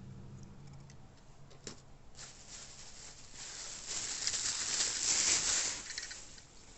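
Packaging crinkling and rustling as it is handled and unwrapped. It builds up about two seconds in, is loudest near the middle, and dies away shortly before the end.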